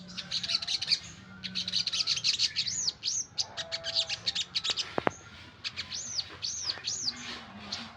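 Kecial kuning songbird singing vigorously: fast runs of high chirps with several arched, rising-and-falling notes, broken by a short pause about a second in.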